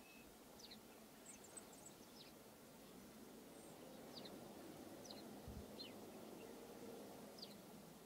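Faint short, high chirps from small birds, scattered about once a second over a quiet, steady outdoor background hiss.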